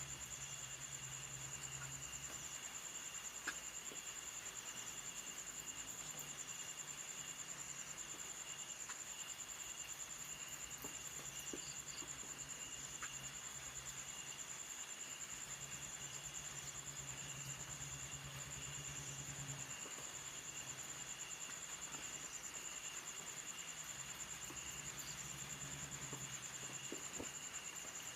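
Insects trilling steadily: one continuous high, fast-pulsing trill, with a second, lower trill that starts and stops every few seconds.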